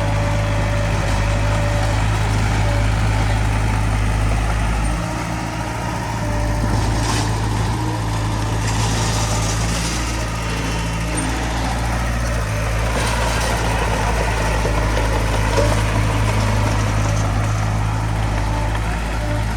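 Diesel engines of heavy earthmoving machinery running steadily with a constant low engine hum. A fainter, higher-pitched whine comes and goes over it.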